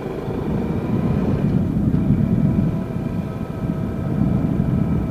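Yamaha Jupiter Z motorcycle's single-cylinder four-stroke engine running steadily while riding, under a low rumble.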